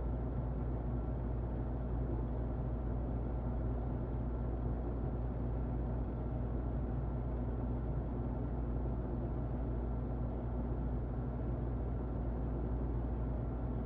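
Muffled electric fan running steadily: an even, low whooshing noise with a faint hum.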